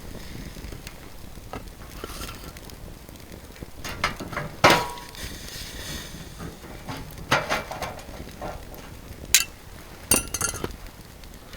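A few sharp clinks and knocks of metal and glass cookware being handled, one ringing briefly, over a steady low background hiss.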